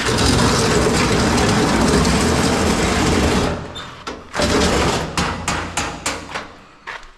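Heavy shop equipment being shoved across the floor: a loud scraping rumble for about three and a half seconds, then a shorter scrape and a string of knocks and clatters.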